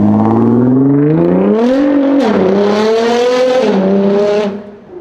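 Nissan GT-R R35's twin-turbo 3.8-litre V6 accelerating hard. The engine note climbs, dips sharply about two seconds in, then climbs again before falling away suddenly near the end.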